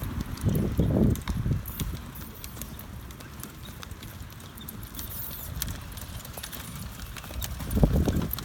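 Horse hooves thudding on the ground, in clusters about half a second to a second in and again near the end, with scattered small clicks and wind rumble on the microphone.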